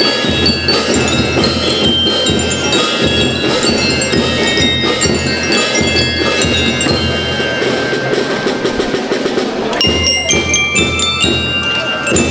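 School band music from bell lyres (glockenspiel-type mallet bells) playing a tune over drums, with many short ringing bell notes on a steady drum beat.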